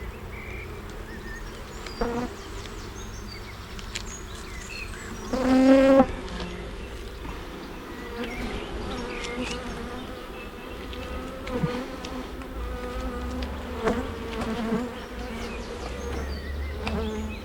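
Honey bees buzzing around an open hive as its frames are inspected, a steady hum. About five seconds in, a single bee buzzes loudly past the microphone for under a second.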